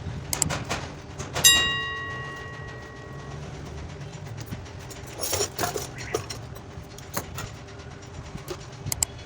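Small metal tools and wire being handled: scattered clicks and rattles, with one sharp metallic clink about a second and a half in that rings on for about two seconds. A faint steady hum runs underneath.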